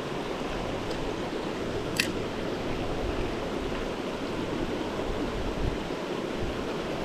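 Steady rush of flowing stream water, with one sharp click about two seconds in.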